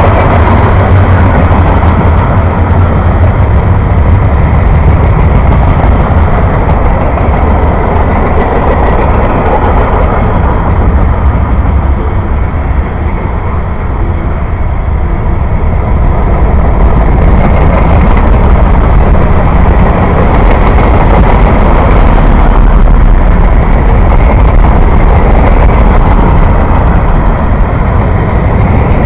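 Freight train cars (tank cars, covered hoppers and coil cars) rolling past at speed close by: a loud, steady rush of steel wheels on rail with a heavy low rumble, easing slightly about halfway through.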